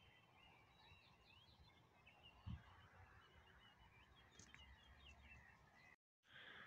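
Faint birdsong: many short chirps and whistles, some sliding in pitch, over a quiet background, with one soft low thump about two and a half seconds in.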